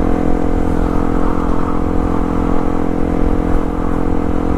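Yamaha WR155R's single-cylinder engine running at a steady cruising speed, its pitch holding even, over a constant low rumble of wind on the microphone.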